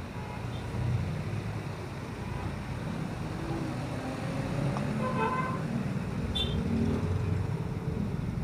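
Street traffic: motor vehicle engines running close by with a steady low rumble that grows a little louder, and a short horn toot about five seconds in.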